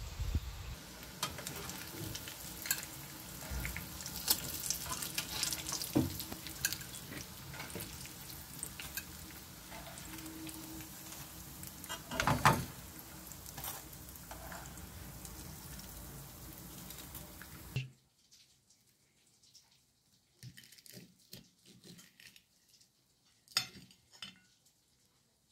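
Breadcrumb-coated zucchini slices deep-frying in oil, a steady sizzle full of crackles, with metal tongs clicking against the pan and a louder clank about twelve seconds in as the slices are lifted out. The sizzle cuts off suddenly about two-thirds of the way through, leaving sparse quiet clicks and scrapes of a knife and fork cutting the crisp crumb coating on a china plate.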